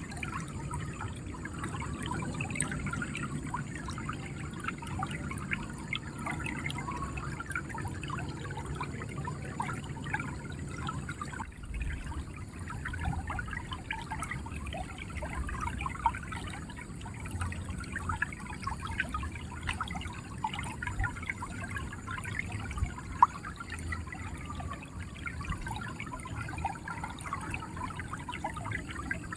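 River water running and gurgling, a steady bubbling trickle with a low rumble beneath. The low rumble changes abruptly about eleven seconds in, and a couple of sharp splashy ticks stand out later.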